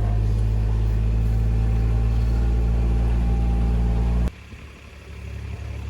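A vehicle engine runs steadily with a low, even hum, then cuts off abruptly about four seconds in, leaving a much quieter hiss.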